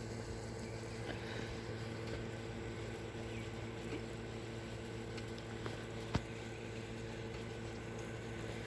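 Steady hum of an air conditioner unit running, with a single sharp click about six seconds in.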